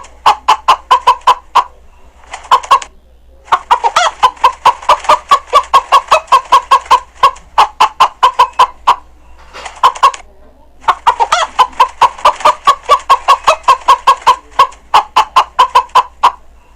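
Hen clucking in fast runs of short, sharp clucks, about four or five a second, broken by a few brief pauses.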